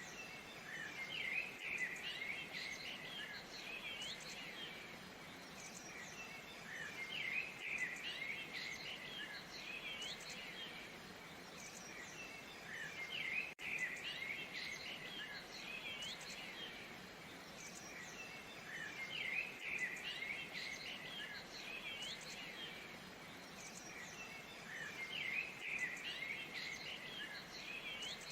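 Songbirds chirping in clusters that recur about every six seconds, over a steady, even hiss of falling water. The sound drops out for an instant about halfway through.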